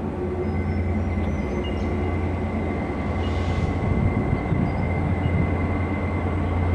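Diesel locomotives of a Queensland Rail coal train approaching, a steady low engine drone that grows slowly louder. A brief hiss comes about three seconds in.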